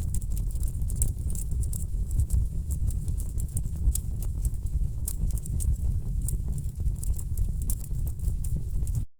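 Wood fire in a fireplace crackling: irregular sharp pops and snaps of burning logs over a steady low rumble. The sound cuts out for a split second near the end.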